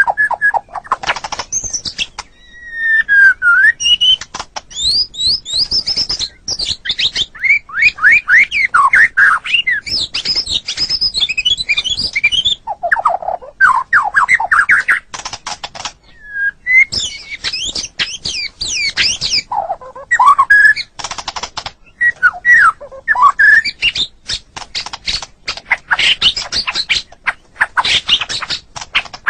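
White-rumped shama (murai batu) singing a loud, varied song of quick rising and falling whistled phrases and trills, broken by fast runs of dry, clicking notes, mostly in the second half.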